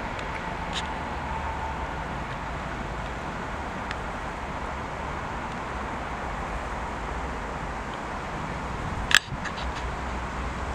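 Steady rumble of distant trains approaching along the line, with one sharp click about nine seconds in.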